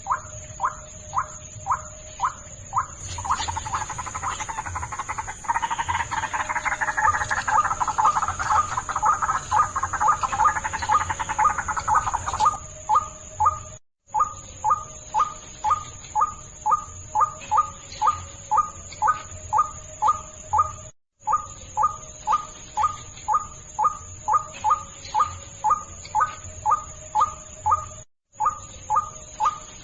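White-breasted waterhen (ruak-ruak) calls played as a bird-trapping lure: a fast, steady series of short repeated call notes, about two to three a second. From about three seconds in to about twelve seconds in, a denser chorus of overlapping calls joins them. A steady high whine runs underneath, and the sound drops out briefly three times.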